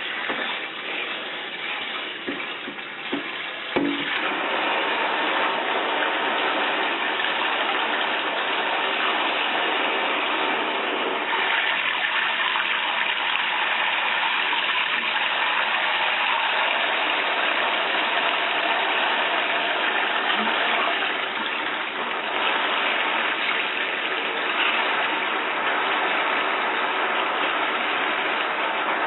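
Shower head spraying a steady stream of water into a bathtub, with a couple of short knocks about four seconds in.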